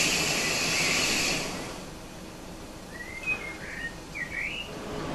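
A steady hiss from the standing train for the first second and a half gives way to quieter outdoor air, where a small bird chirps a quick run of short calls about three seconds in.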